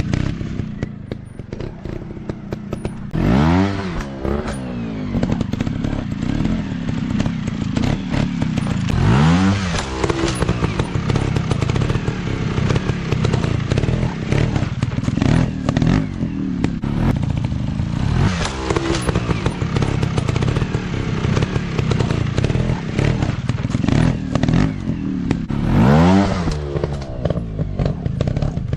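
Dirt bike engine running hard with a rattling clatter, blipped up and back down sharply four times, each rev rising and falling in pitch within about a second.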